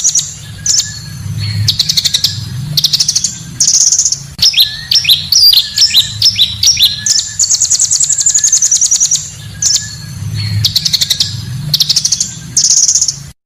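Song of the bird sold in Indonesia as 'pancawarna': loud, rapid high chirps, buzzy trills and down-sweeping whistles. The same phrase sequence repeats about every seven seconds, as a looped recording, over a faint low hum, and it cuts off abruptly at the end.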